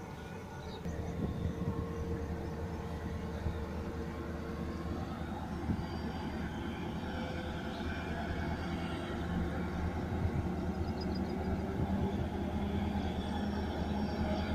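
Goods train rumbling along the line at a distance, a steady low rumble that slowly grows louder as it comes closer.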